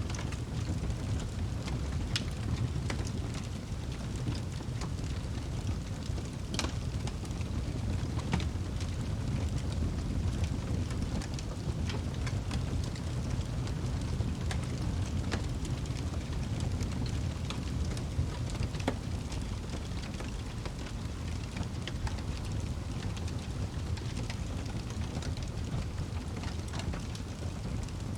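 Wood fire burning in a fireplace: a steady low rumble of flames with scattered sharp crackles and pops, one louder pop about six seconds in.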